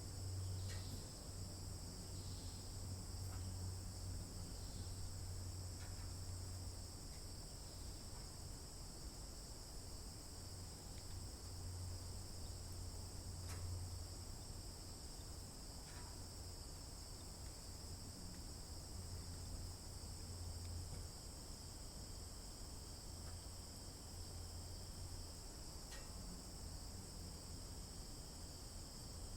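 Steady, high-pitched chorus of insects, likely crickets, running on without a break, over a low steady rumble, with a few faint ticks now and then.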